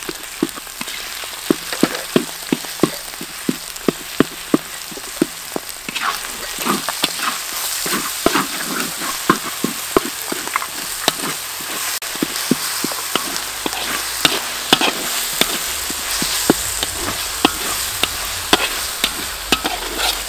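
Curry paste with whole garlic cloves frying in oil in a large wok, sizzling steadily while a metal ladle scrapes and knocks against the pan in sharp irregular clicks. The sizzle grows louder about six seconds in.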